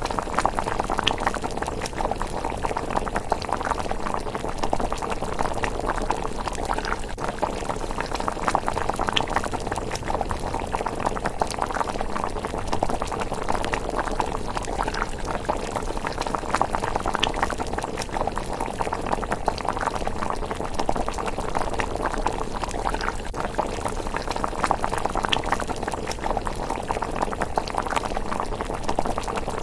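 A pot of miso rice porridge bubbling at a steady simmer, with scattered small crackles from the wood fire beneath it.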